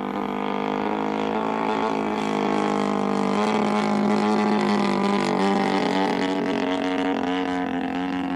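Gas engine of a giant-scale RC warbird running in flight, a steady drone whose pitch shifts slightly a few times and which swells in loudness toward the middle as the plane passes. The pilots judge the engine rich and not behaving.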